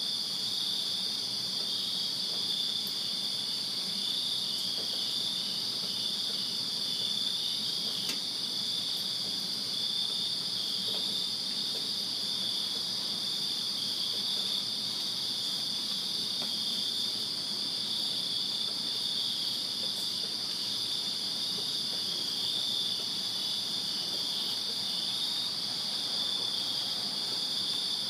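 Crickets chirping in a steady, continuous chorus of high-pitched trilling.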